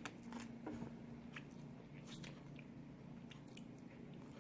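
Quiet chewing and eating of snow crab legs, with scattered small clicks and crackles.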